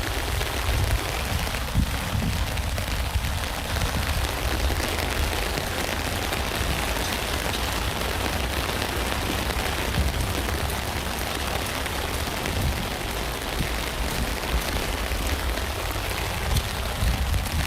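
Steady rain falling on a tent: a constant hiss of many drops with a deep low rumble underneath.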